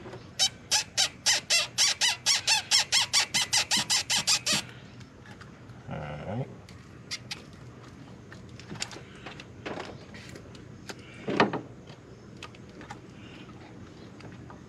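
A bird calling a rapid series of about twenty loud, evenly spaced notes, about five a second, for some four seconds. Afterwards come light clicks and knocks of hand-tool work, with one short louder knock about eleven seconds in.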